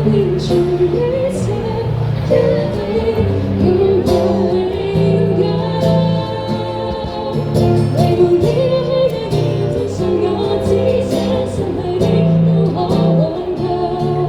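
Live band music with a sung melody over held bass notes and a steady beat.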